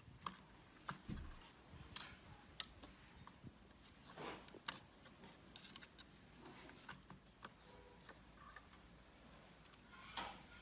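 Near silence, broken by faint scattered clicks and a short soft scraping sound about four seconds in.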